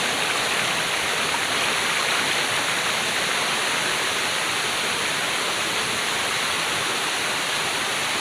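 Waterfall rushing: a steady, unchanging rush of falling water.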